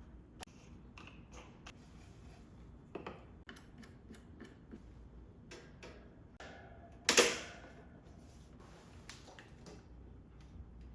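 Scattered light clicks and taps of small objects being handled, with one louder knock about seven seconds in that dies away quickly.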